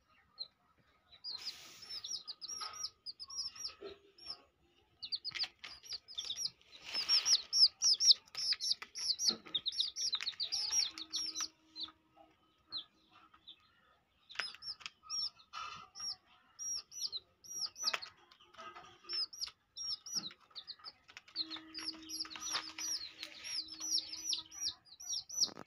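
Small birds chirping: quick runs of short, high chirps, with brief pauses between the runs.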